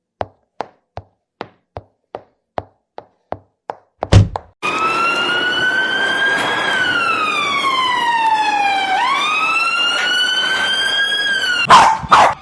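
Sharp ticks about two and a half times a second, then a heavy thud about four seconds in, then a siren wailing for about seven seconds, its pitch gliding slowly up, down and back up, ending in a couple of thumps.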